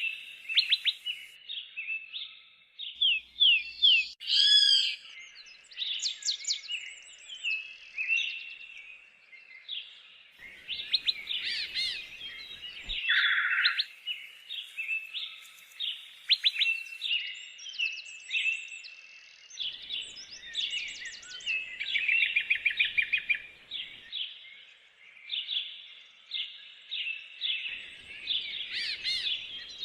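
Many woodland songbirds singing and calling at once: a dense, overlapping chorus of quick chirps, trills and whistles.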